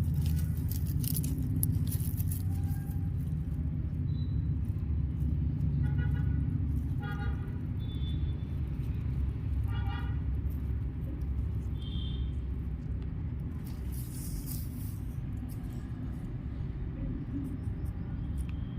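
Farm machinery engine running with a steady low rumble during potato harvesting. A few short high-pitched cries come through about a third of the way in and again around the middle, and brief hissing rattles come near the start and later on.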